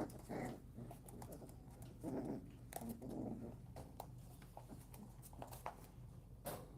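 Puppies play-fighting: a few short low grunts and scuffles, with scattered light clicks.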